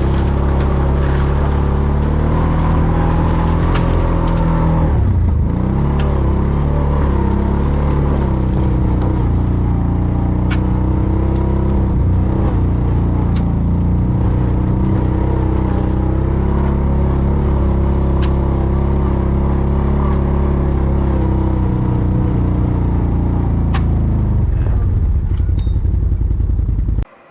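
ATV engine running steadily under way, easing off and picking up again about five seconds in, then cutting off suddenly near the end.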